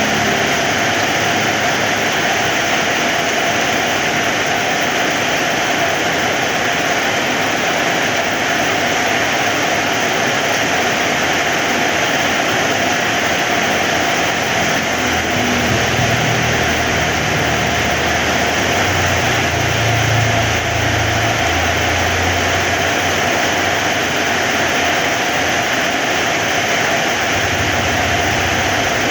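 Heavy rain falling steadily. A low rumble swells in under it from about halfway through for several seconds, and briefly again near the end.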